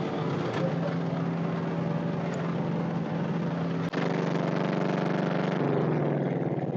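Mini excavator engine running steadily, its note shifting slightly lower about five and a half seconds in, with one sharp click about four seconds in.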